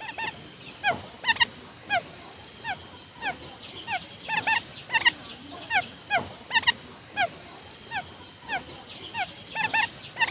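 Quail calling: a run of short, falling notes, some in quick pairs, repeating about two or three times a second.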